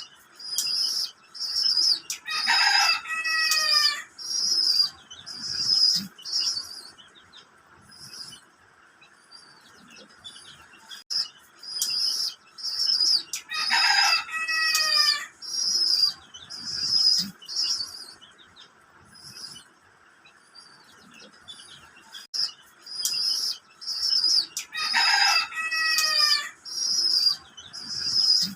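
Bird sounds: quick high chirps in bursts, and three times a longer call that falls in pitch, about eleven seconds apart in a near-identical repeating pattern.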